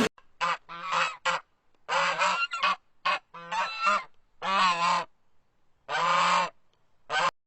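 Goose honking: a series of about nine short, loud honks, irregularly spaced, with silent gaps between them.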